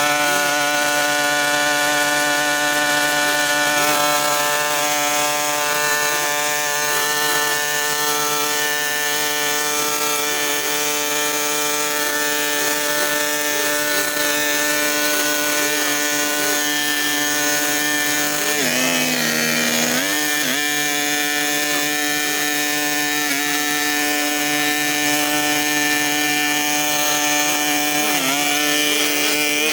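Small two-stroke engine of a handheld power tool running at high speed, its pitch sagging for a second or so about two-thirds of the way through as it bogs under load, then recovering.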